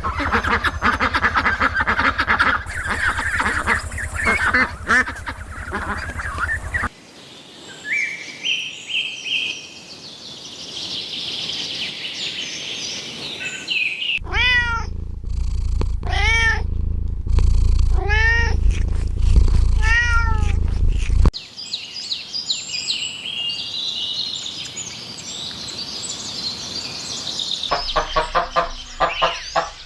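A string of animal sounds: high chirping, then a cat meowing four times, each meow rising and falling, over a low rumble, then more high chirping. A run of quick, short calls starts near the end.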